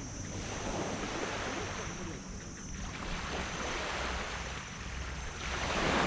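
Small tropical waves washing up on a sand beach, three surges of rushing surf, the loudest near the end.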